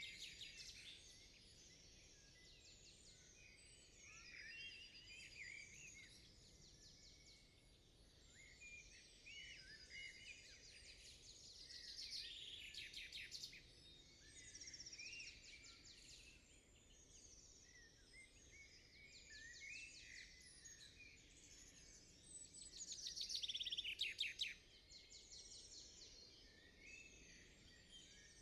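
Several small songbirds chirping and trilling, faint and overlapping, over a soft background hiss; one louder trilling song comes near the end.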